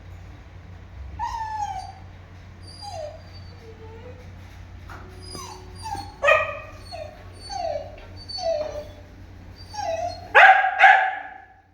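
A string of short yelping calls, each falling in pitch, coming faster in the second half and loudest as a double call near the end.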